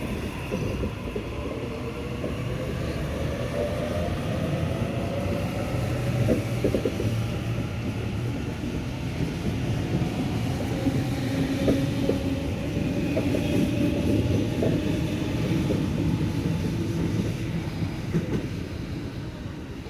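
Sydney Trains electric train running on the track: a steady rumble with a whining tone that glides slowly up and down, and scattered clicks of the wheels over rail joints.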